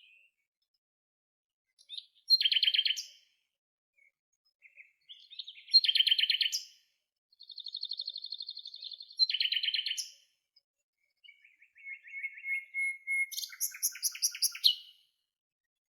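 A songbird singing in short phrases of rapid trilled and buzzy notes, each phrase about one to three seconds long, separated by brief pauses.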